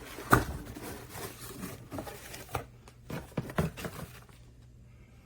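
Hands rummaging through packaging and box contents: rustling of paper and plastic with a sharp knock a moment in and a few clicks and taps about three seconds in.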